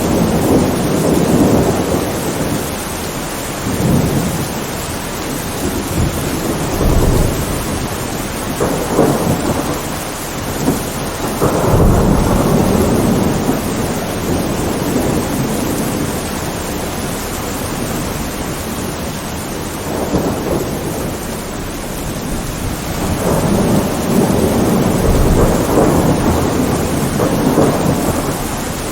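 Steady heavy rain with thunder rolling low and long several times, the biggest rumbles about twelve seconds in and again near the end.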